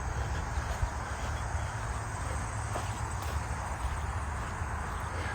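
Steady chorus of insects, with a low rumble underneath.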